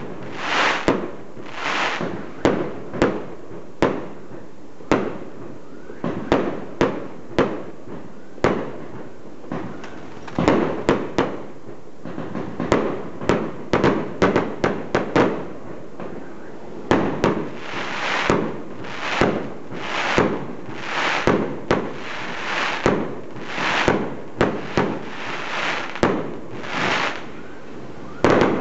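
Aerial fireworks going off in a continuous barrage: many sharp bangs in irregular quick succession, several a second at times. In the second half, longer, softer bursts of noise are mixed in between the bangs.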